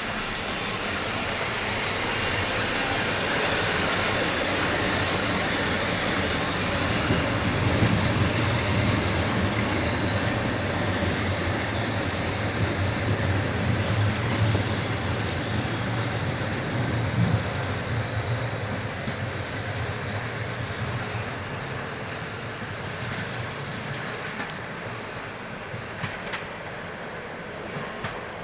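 A train running along the track, a rumble of wheels on rails that builds, stays loud through the middle, and then eases off.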